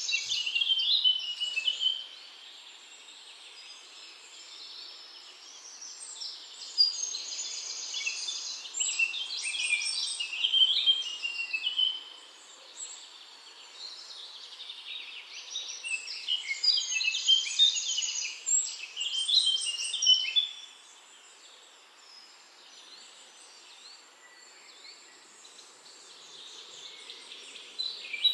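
Birds twittering outdoors in long bouts of rapid, high-pitched notes, each bout several seconds long, with quieter stretches of background ambience between them.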